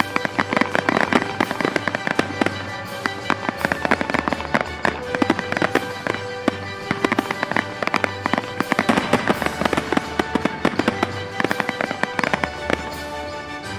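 Fireworks going off in a fast, irregular stream of sharp cracks and bangs, over background music.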